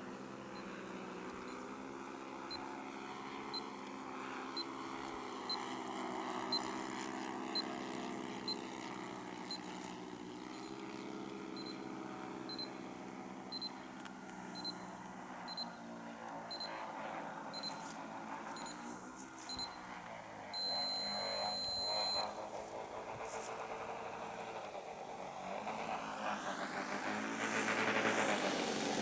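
Twin four-stroke glow engines of a radio-controlled Beechcraft Baron G58 model droning in flight, their pitch wavering as the plane moves and throttles, and growing louder near the end as it comes closer.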